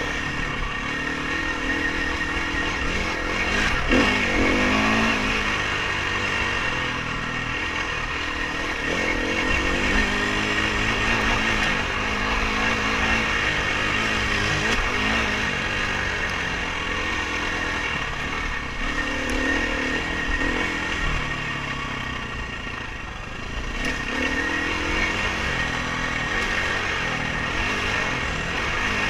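Dirt bike engine revving up and down repeatedly as it is ridden over the trail, with a knock about four seconds in.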